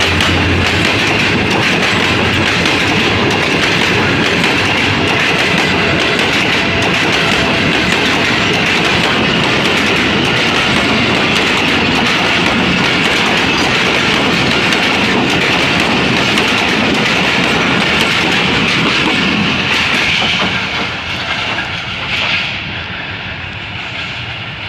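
Pakistan Railways passenger coaches rolling past close by, their wheels running steadily over the rails; the sound falls away about twenty seconds in as the last coach passes and the train moves off.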